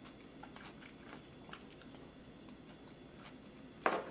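A person chewing a mouthful of shrimp ceviche, with faint wet clicks and mouth sounds. A sharper, louder click comes near the end.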